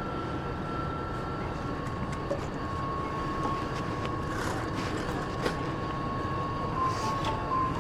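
Steady rumble of passing vehicles, with a faint thin whine that holds one pitch and drops a little about two seconds in, and a few light clicks.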